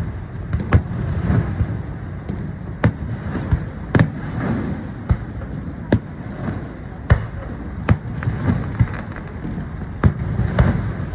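Fireworks shells bursting, with about ten sharp bangs spaced irregularly a second or two apart over a steady low rumbling background.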